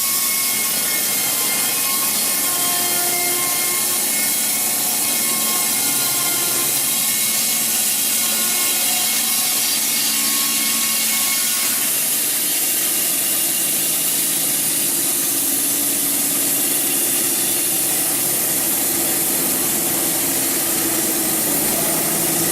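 Portable narrow-blade band sawmill running and cutting through a log: a steady, noisy hiss with machine tones underneath that change about halfway through.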